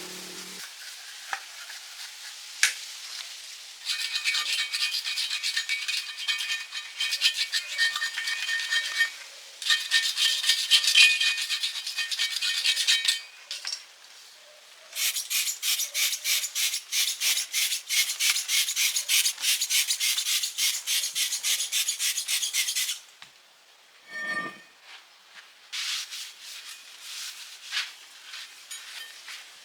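Rubbing or scraping on metal in quick back-and-forth strokes, about three a second, in three spells of several seconds with short pauses between them.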